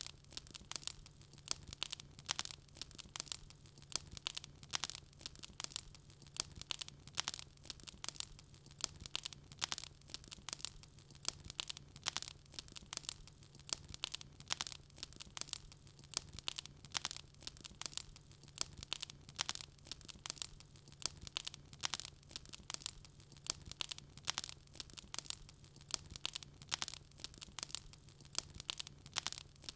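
Wood fire crackling: a continuous stream of sharp pops and snaps, several a second, over a faint steady low hum.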